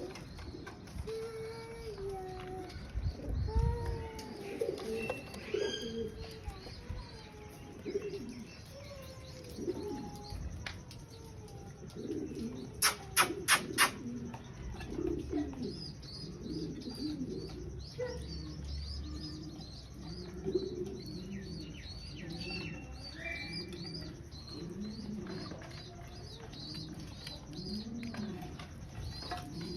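Pigeons cooing repeatedly, with small birds chirping rapidly at a much higher pitch through the second half. A quick run of four sharp clicks is the loudest sound, about halfway through.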